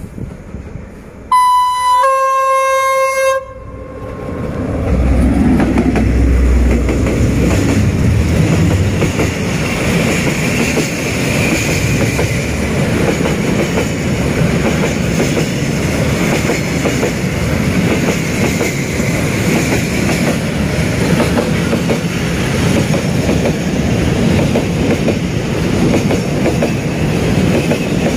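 Vietnamese D20E diesel locomotive sounding its horn twice, a short higher blast and then a longer lower one. Its engine rumbles past, and a long train of freight wagons follows, rolling by with steady wheel clatter on the rails.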